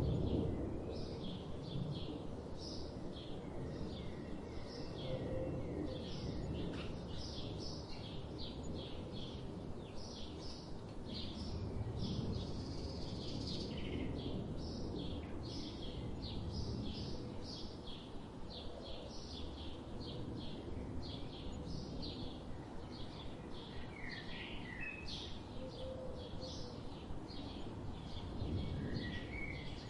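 Songbirds chirping in a steady run of short high notes, about three a second, over a continuous low rush of flowing river water.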